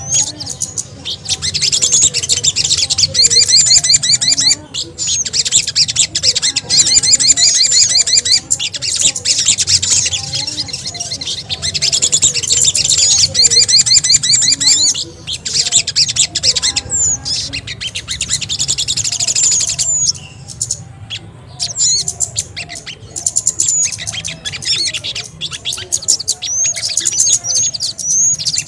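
Bird-lure recording of sogon and kemede (bangcit) calls: dense, high-pitched chirping and rapid trills from several small birds, broken by short pauses about 4, 15 and 20 seconds in, over a steady low hum.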